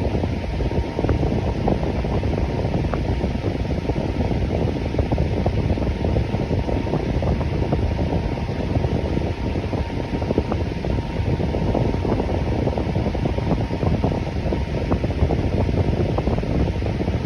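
Electric fan running steadily: an even whoosh of moving air, heaviest in the low range, with a faint steady hum on top.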